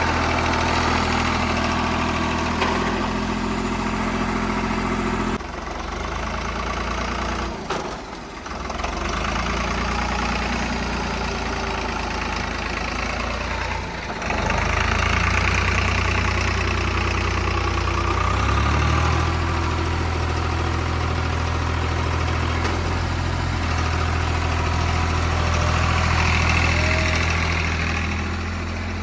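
Diesel tractor engine running under changing throttle, its note dropping and rising several times: it falls away about five seconds in, dips near eight seconds, then picks up again around fourteen and nineteen seconds in.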